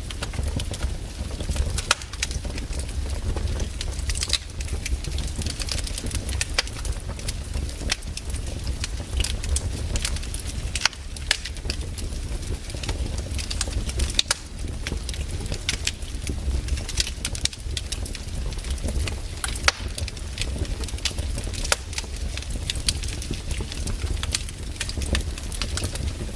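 Wood campfire crackling, with sharp irregular pops and snaps over a steady low rumble.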